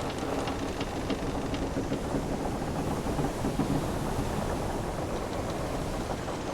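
Wooden sailing ship creaking over a steady wash of ocean waves, with low creaks now and then.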